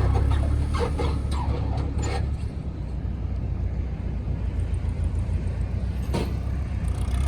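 Boat outboard motors running with a steady low rumble, with faint voices in the first couple of seconds.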